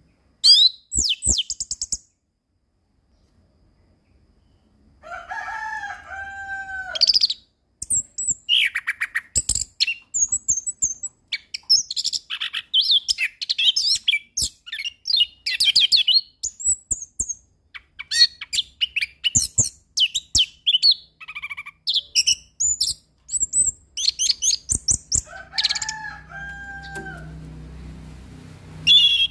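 Orange-headed thrush singing a loud, varied song of rapid high chirps, trills and whistled phrases in quick bursts. There is a short pause near the start. A lower two-note whistled phrase comes twice.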